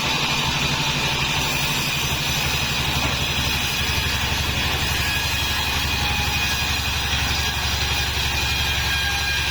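Homemade band sawmill's engine running steadily with an even low pulse, which grows stronger a few seconds in, and a thin steady high whine above it.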